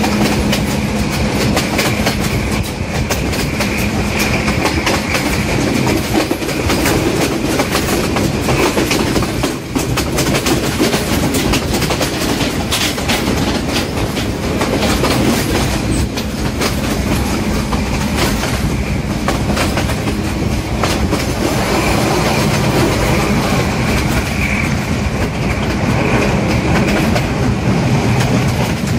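A diesel-hauled passenger train in motion heard from beside an open coach window: continuous rumble and clatter of the coaches' wheels with frequent clicks over the rail joints, over the steady hum of the Class M6 diesel locomotive working up a steep grade.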